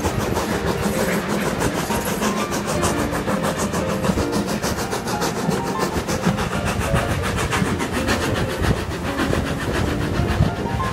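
Steam-hauled passenger train running along, heard from an open carriage window: the rumble of the coaches' wheels on the rails with a quick, regular beat.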